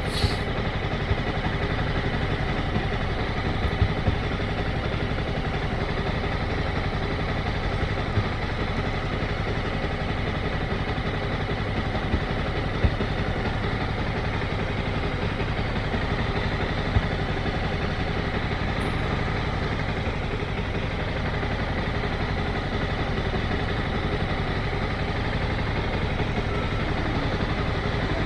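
Motorcycle engine running steadily at an even pitch, with no revving, and a few sharp clicks.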